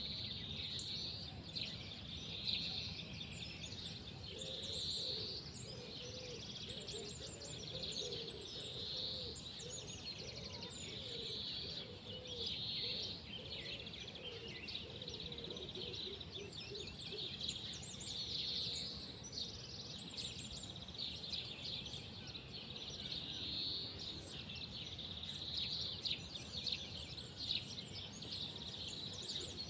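Outdoor birdsong: birds chirping and calling over and over, with a wavering lower-pitched call repeating for a while in the first half, over a steady low background hum.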